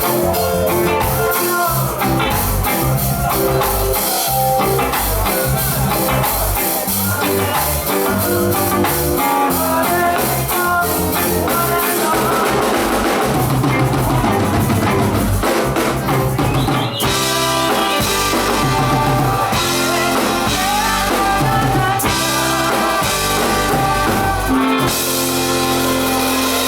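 Live reggae band playing, with drum kit and rimshots over a steady bass line.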